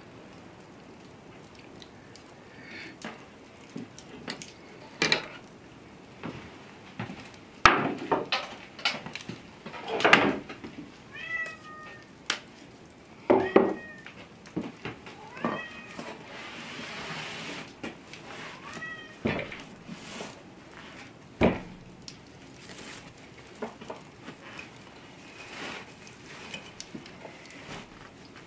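Scattered sharp knocks, clicks and scrapes, with about five short pitched squeaks or mewing calls among them in the middle stretch.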